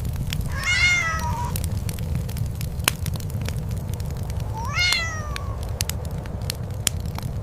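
A cat meows twice, two drawn-out calls that rise and then fall in pitch, about four seconds apart. Under them runs a steady low rumble with scattered sharp clicks.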